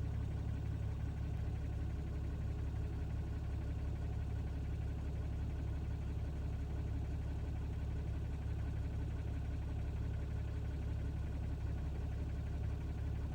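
Ram pickup's engine running steadily at low revs, a low, even drone with no changes.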